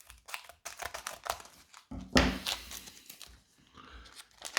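Foil wrapper of a Pokémon VMAX Climax booster pack being torn open and crinkled: a run of irregular tearing and rustling, loudest about two seconds in.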